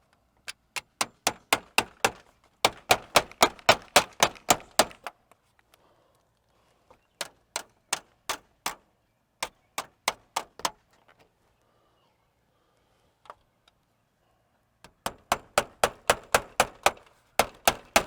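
Rapid, evenly spaced sharp clicks, about five a second, in several bursts of one to three seconds with pauses between, from a part being fitted back into place by hand.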